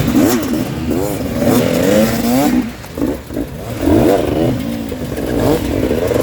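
Dirt bike engines revving hard, their pitch rising and falling again and again with the throttle, with a brief drop in the revs about three seconds in.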